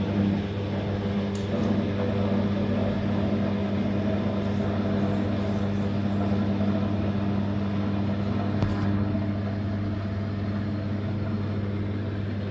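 Living & Co 5.5 kg top-load washing machine's drain pump running with a steady hum as the machine drains.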